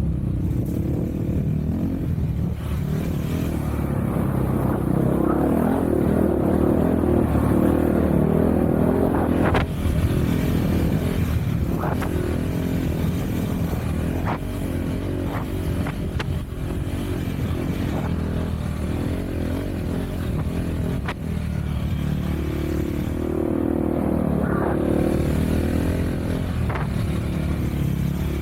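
Off-road vehicle engine running as it is ridden, pulling harder for a few seconds and easing off, then picking up again near the end. A few sharp clicks sound over it about halfway through.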